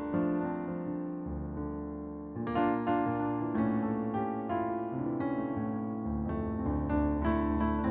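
Electric piano music: sustained chords over held bass notes that change every second or two.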